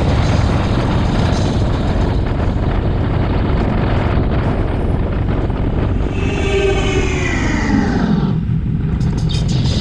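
Harley-Davidson Road Glide Special on the move: steady engine and wind noise on the bike-mounted camera's microphone. Past the middle, a pitched tone falls steadily in pitch for about two seconds, then ends.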